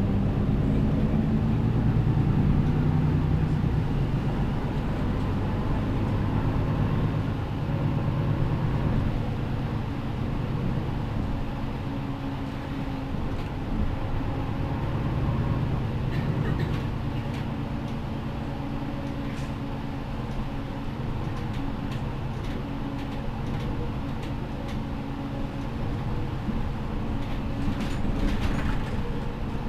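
MAN Lion's City G articulated city bus with its Euro 6 engine running as the bus drives, a steady low engine note over road noise. It is louder for the first several seconds, then settles to a quieter, even note.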